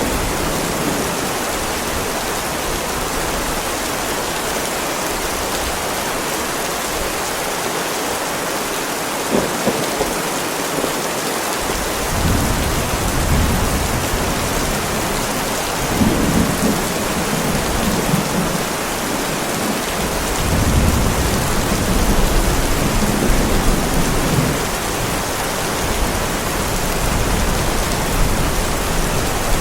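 Heavy rain falling steadily on a driveway, with thunder rumbling low from a little before halfway through until near the end.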